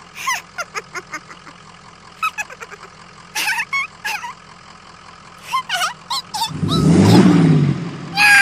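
A string of short squeaky cries that slide up and down in pitch. About six and a half seconds in, a loud vehicle engine sound effect comes in and revs, dubbed over the toy truck.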